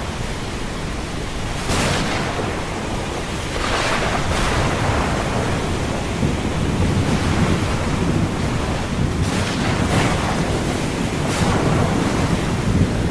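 Ocean surf: a steady rush of breaking waves, broken by several brief sharp bursts of noise, with the sound slowly swelling.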